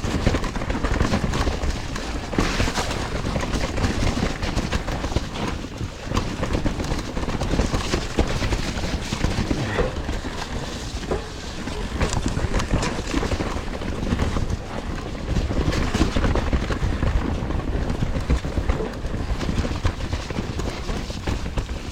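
Mountain bike being ridden over a rough, wet trail: a steady rush of tyre and wind noise with frequent clattering knocks as the bike jolts over bumps.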